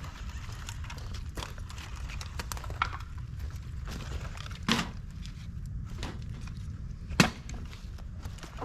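Dry bamboo and twigs crackling as they burn in a campfire stand, over a steady low rumble. Two sharp, loud pops come through, one just past halfway and one near the end.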